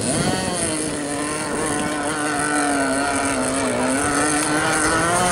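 Nitro two-stroke engine of an RC monohull racing powerboat running at high revs: a steady, high-pitched whine that wavers slightly up and down in pitch.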